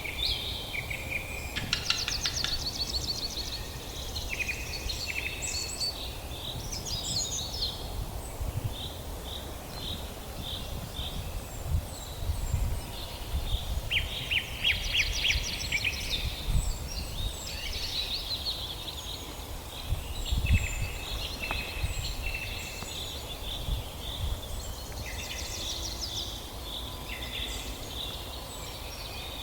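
Indian ringneck parakeets chattering, with many short chirps and rapid trilling calls overlapping throughout, over a steady low rumble.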